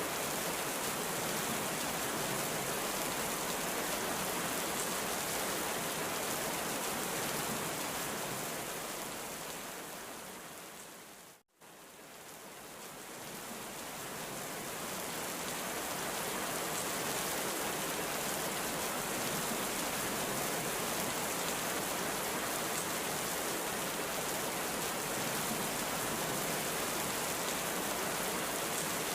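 Heavy rain falling in a steady, even hiss. About eleven seconds in it fades out to a moment of silence, then swells back up to full over a few seconds.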